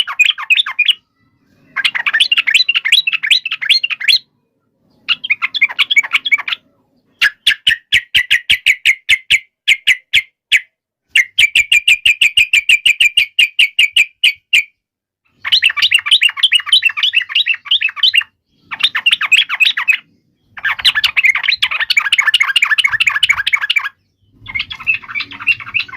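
Sooty-headed bulbul (trucuk) giving its agitated fighting song: fast, chattering phrases of one to three seconds, each cut off by a short silent gap. Midway the phrases turn into quick clicking rattles.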